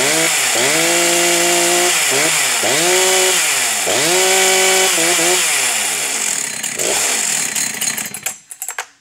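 Husqvarna 272 XP 72 cc two-stroke chainsaw being revved: the engine is repeatedly run up to high speed, held there for a second or so and let drop back, with a few quick blips about five seconds in. It winds down from about six seconds in, and the sound cuts off sharply near the end.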